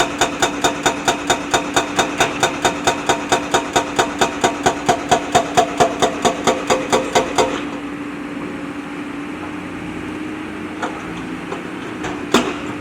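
Backhoe loader's diesel engine running steadily, with a sharp regular clatter about four times a second that stops about two-thirds of the way through, leaving the plain engine hum. A single knock comes near the end.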